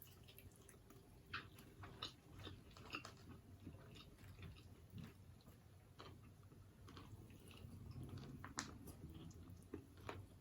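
Faint, close-miked chewing and biting of a sweet chili chicken wing: scattered soft clicks and crackles from mouth and food.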